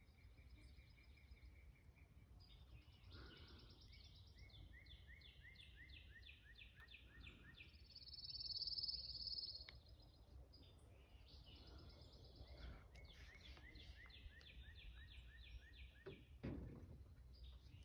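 Faint chirping of small animals: long runs of short, high calls repeated about four times a second, with a louder buzzy trill about eight seconds in. A low thump sounds near the end.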